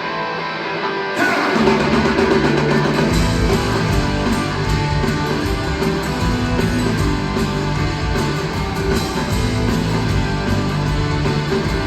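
Live country-rock band playing an instrumental guitar break, with electric guitar over bass and drums. The full band comes in about a second in.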